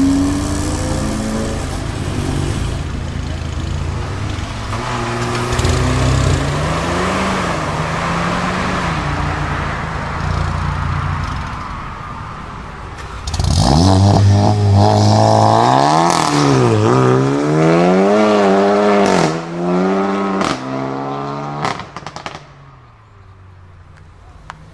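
A Volkswagen Golf R's turbocharged four-cylinder pulls away, its pitch rising and falling as it accelerates. About 13 seconds in, a Volkswagen Golf GTI's four-cylinder revs hard in several quick rising and falling sweeps, with sharp exhaust pops between the revs, and then it fades near the end.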